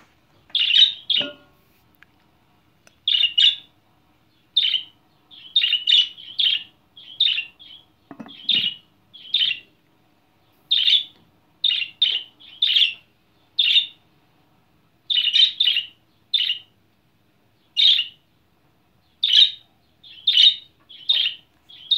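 Budgerigar giving loud, short, shrill chirps over and over, about one or two a second in irregular bunches, excited calling.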